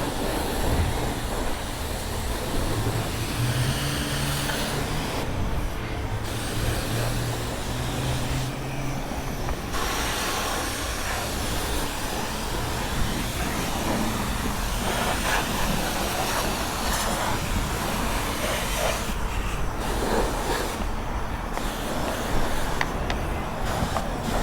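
Self-serve car wash high-pressure wand spraying with a steady hiss, dropping out briefly a few times.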